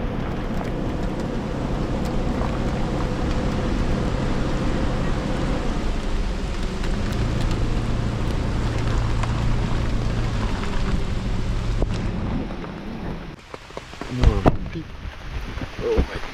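Heavy rain pouring down steadily, with a steady low hum underneath. About 13 s in the rain noise drops away, and a loud knock follows, with a brief voice after it.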